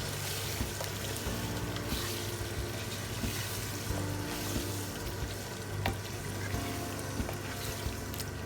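Chicken karahi sizzling in the pan as yogurt is stirred through the chicken and masala, with a couple of sharp knocks of the spoon against the pan.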